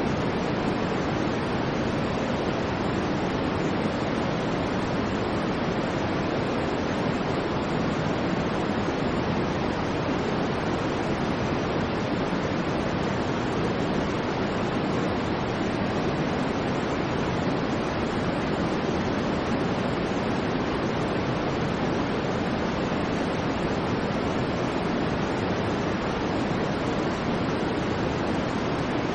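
Continuous generated white noise: a steady, even hiss with no rise, fall or break, fuller and duller in the low-middle than at the top.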